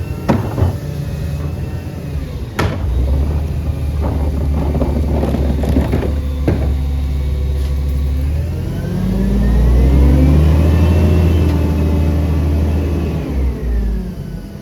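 CNG Peterbilt garbage truck's engine running with several sharp metallic knocks in the first half, then revving up for several seconds and dropping back down near the end.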